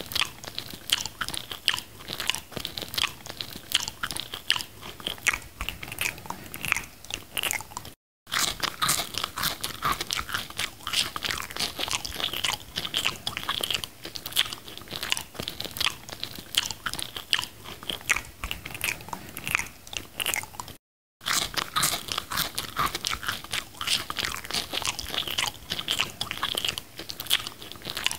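Biting and chewing McDonald's french fries, a dense run of small crisp crunches and clicks. The sound cuts out completely for a moment twice, about a third of the way in and again about three quarters through.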